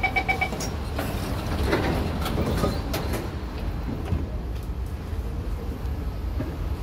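Rapid electronic door beeps end about half a second in, then the low steady hum of an SMRT C751B train standing at the platform, with a few clicks and knocks.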